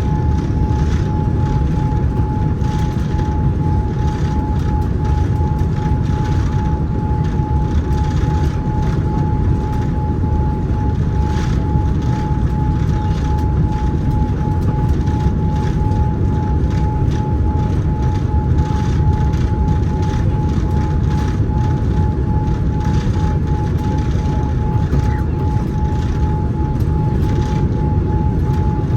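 Boeing 787-9 cabin noise: a steady low rumble with a thin, steady whine above it and light scattered rattles.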